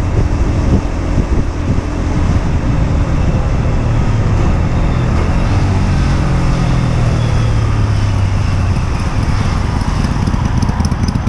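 Husqvarna Svartpilen 125's single-cylinder engine running on the road under wind rush, its pitch sliding slowly down in the second half as the bike eases off.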